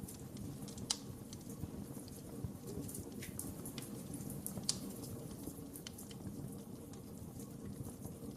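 Wood fire burning with a steady low rumble and frequent sharp crackles and pops, two louder pops about a second in and near the middle.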